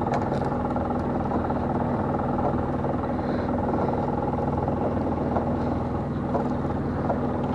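Small fishing boat's engine running steadily with a constant hum, a few faint clicks over it.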